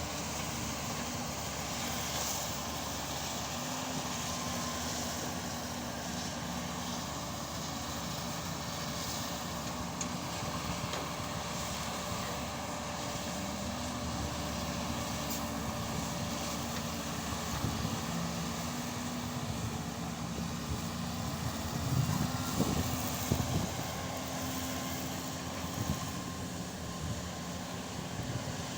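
Excavator's diesel engine running steadily, its note shifting up and down in steps as the machine works. A few heavier thumps come about three-quarters of the way through.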